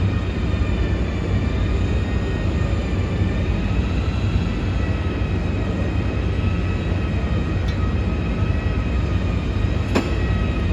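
A vehicle running steadily: a heavy low rumble with faint high whines that waver slowly in pitch. There is a sharp click near the end.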